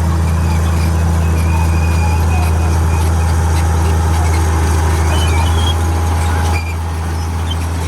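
Komatsu D58E bulldozer's diesel engine running steadily under load with a deep drone, faint high squeaks above it; the drone drops suddenly in level about six and a half seconds in.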